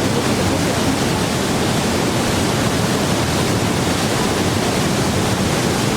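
Waterfall rushing in a gorge: a steady, loud roar of falling water.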